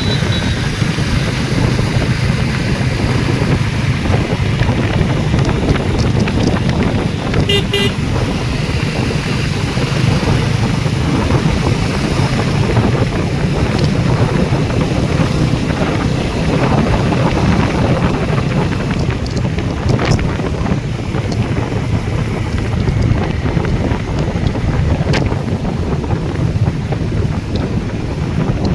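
Riding a motorcycle in traffic: wind buffeting the microphone over a steady engine hum and road noise. A vehicle horn honks briefly about eight seconds in.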